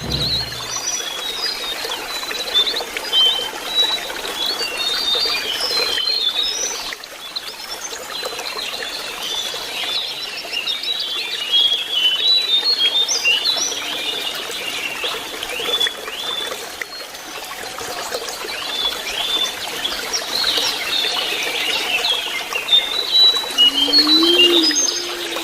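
Lesser shortwing song: dense runs of short, high chirping and warbling notes, over a steady trickling water stream.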